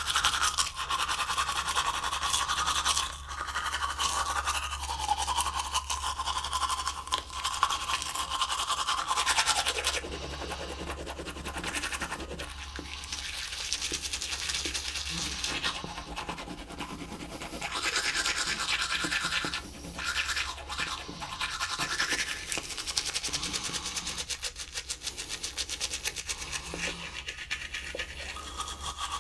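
Teeth being brushed with a toothbrush: rapid back-and-forth scrubbing of the bristles, rising and falling in strength, with a few brief pauses.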